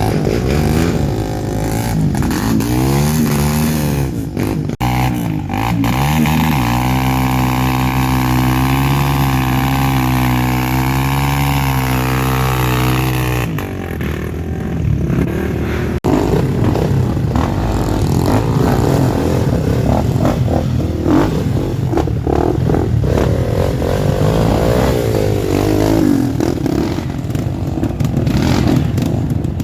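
Off-road trail motorcycle engines revving, the pitch rising and falling in bursts. Around the middle, one engine holds steady high revs for about six seconds before the sound cuts to more varied revving.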